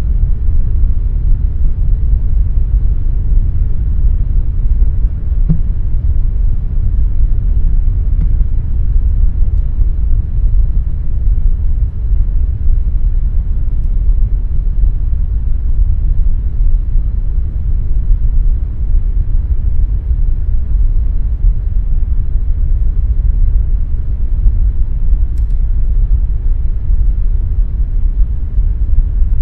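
Air conditioner running with a steady, deep rumbling hum of low noise, unchanging throughout.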